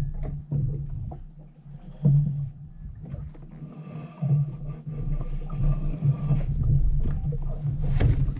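Wind buffeting the microphone with a steady low rumble, while an inflatable kayak is paddled: several sudden knocks and splashes from the paddle and hull, the loudest one near the end.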